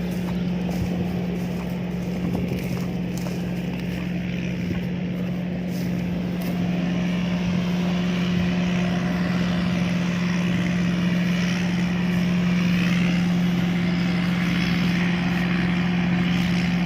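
Combine harvester running steadily, a constant machine drone with a strong low hum that grows a little louder about halfway through.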